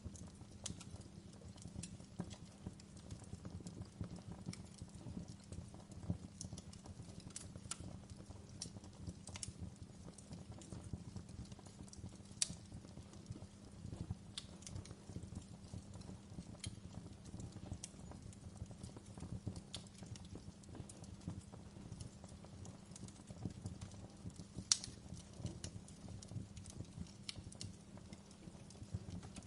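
Wood fire crackling in a fireplace: irregular sharp snaps and pops over a low steady rumble, with two louder pops, one about midway and one later on.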